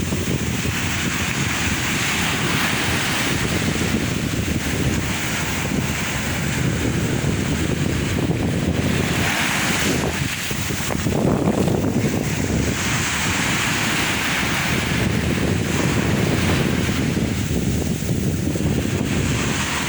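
Sea waves breaking and washing on the shore, surging every few seconds over a steady low rumble, with wind buffeting the microphone.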